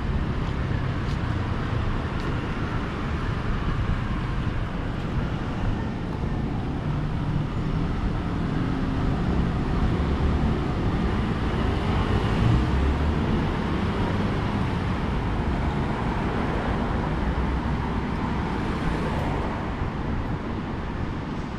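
Road traffic on a city street: cars running past steadily, with one vehicle growing louder and passing about ten to thirteen seconds in.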